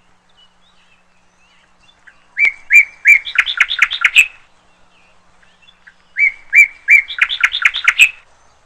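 A small bird singing two phrases, each a run of chirps about two seconds long that come faster toward the end.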